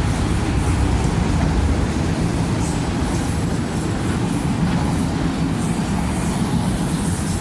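Freight cars of a CSX autorack train rolling past at close range: a steady rumble of wheels on rail with a hiss of noise above it.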